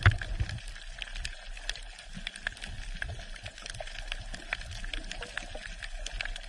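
Water trickling and bubbling, with many small irregular clicks and drips over a light hiss.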